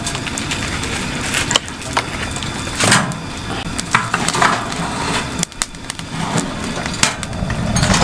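Wood cracking and snapping: irregular sharp cracks and a few longer crunches over a steady hiss.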